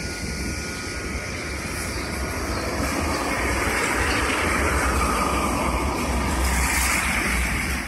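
Steady rumble and hiss of a train moving through the rail yard below, swelling louder from a few seconds in and cutting off suddenly at the end.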